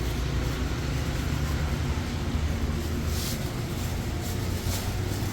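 Motor vehicle engine running, a steady low rumble with road noise, and a few brief hissing rustles.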